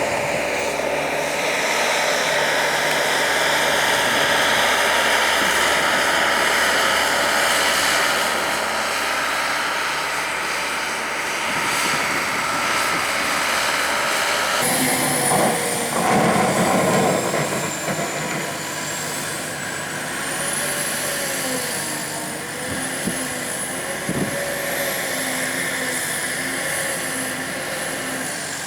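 Steady motor-vehicle engine noise with a continuous rushing hiss. About halfway through the sound changes abruptly, and a faint high wavering whine sits on top for the rest.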